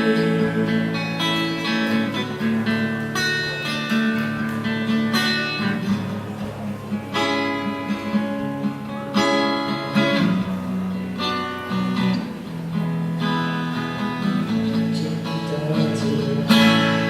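Instrumental break in a song: an acoustic guitar strumming chords, with steady held notes underneath.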